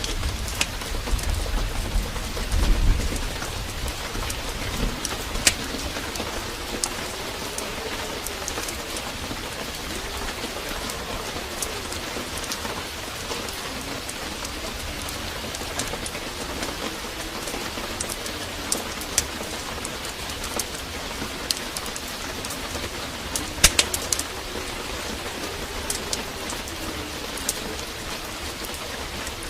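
Heavy rain falling steadily, with sharp crackles and pops from a wood fire scattered through it. A low rumble of thunder comes in the first few seconds, and low cooing calls come and go in the middle and near the end.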